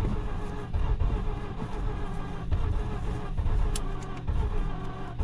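Starter motor cranking a Mazda RX-8's 13B rotary engine: a steady starter whine with uneven surges as the engine tries to catch but does not run on its own.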